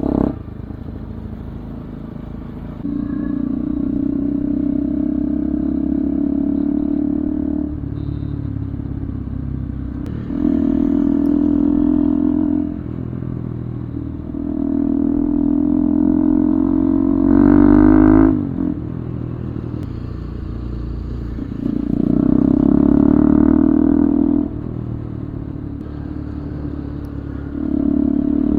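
Bajaj Pulsar 200 single-cylinder motorcycle engine through an aftermarket Akrapovic full-system exhaust, ridden with repeated spells of throttle of two to three seconds each and quieter easing off between them. About two-thirds through, one rev climbs higher in pitch and is the loudest, then drops away.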